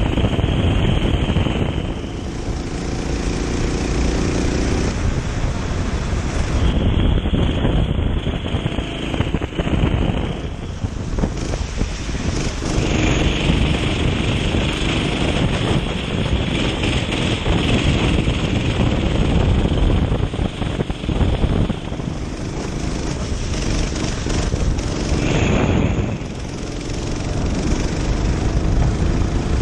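Kart engine running at race pace, its pitch rising and falling several times as it revs up and drops through corners, under heavy wind noise on the onboard microphone.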